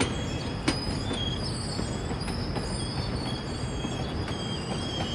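GO Transit commuter train rolling past on its approach, its steel wheels squealing in thin high tones that come and go over a steady rumble, with a few sharp clacks from the rails.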